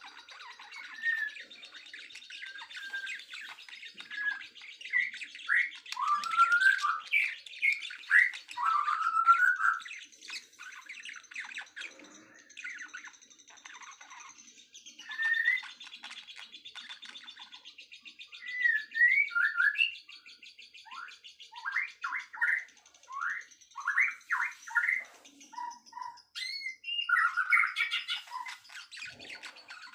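Several songbirds chirping and singing in overlapping, varied phrases of short gliding notes, with a quick run of repeated notes about two-thirds of the way through, over a steady high, thin trill.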